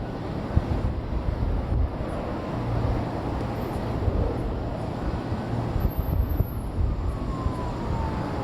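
Steady low engine rumble of airport traffic, with a faint tone that slowly falls in pitch near the end.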